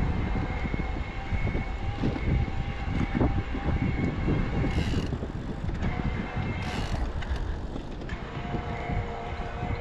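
Wind buffeting the microphone and road noise from an e-bike riding on a road, a continuous uneven rumble with a steady thin whine over it. Two short hissy swells come about five and seven seconds in.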